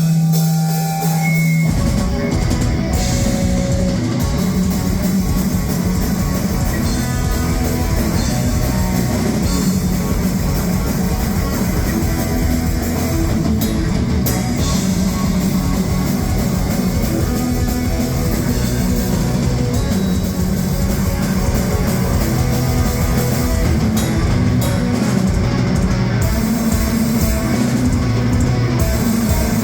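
Heavy metal band playing live: a held low chord rings for a moment, then about two seconds in the full band comes in with guitars and a drum kit, playing on steadily and loud.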